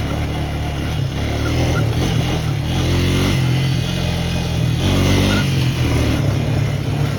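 Small off-road vehicle engine running steadily, revved up briefly twice, about three and five seconds in.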